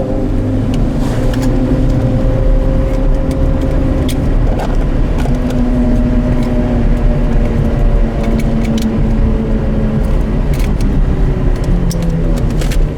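Porsche Carrera GT's V10 running through its FVD exhaust at a steady engine speed, its note easing slightly lower near the end, with a few scattered clicks over the engine sound.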